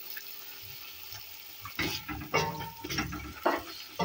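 Beef cubes frying in oil in a stainless steel pot, a steady low sizzle. From about two seconds in, a wooden spoon stirs and scrapes the meat against the pot in irregular strokes.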